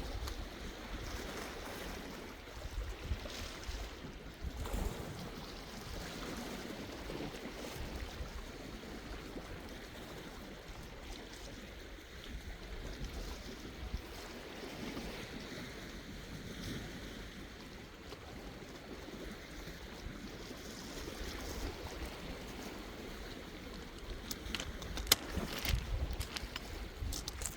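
Sea waves washing in and out, with wind buffeting the microphone in low gusts. A single sharp click stands out near the end.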